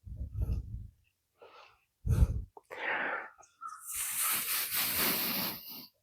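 Two short dull knocks, then a hiss lasting about two seconds near the end.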